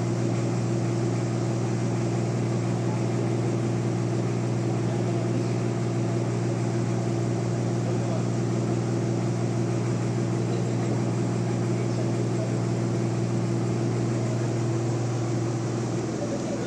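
Sawmill bandsaw machinery running steadily: a constant low engine drone with a hiss above it, unchanging throughout.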